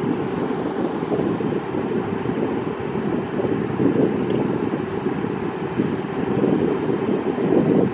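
A train running past, a steady rumble with no horn or distinct wheel clicks.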